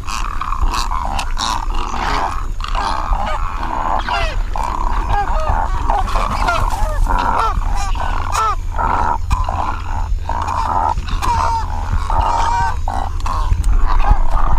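Great egret nesting colony calling: many harsh, croaking calls overlapping without a break, with short rising and falling call notes among them, over a steady low rumble.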